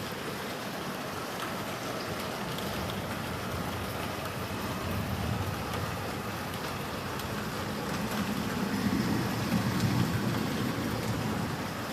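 Heavy thunderstorm rain falling steadily, with a low rumble that swells about eight seconds in and then fades.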